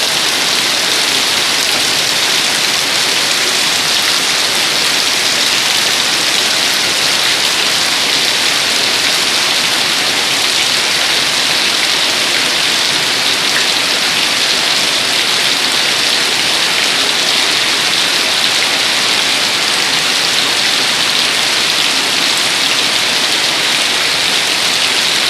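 Heavy, steady rain pouring down, an even hiss with no letup.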